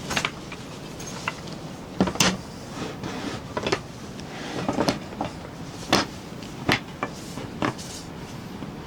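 About eight irregular sharp knocks and clacks of hard objects being handled, over a steady hiss of rain.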